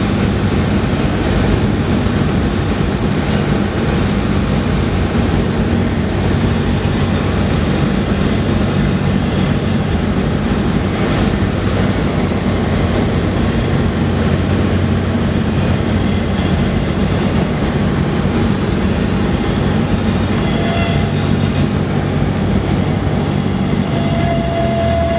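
Cessna single-engine light plane's piston engine and propeller running steadily, heard inside the cabin with rushing airflow noise, during the landing approach.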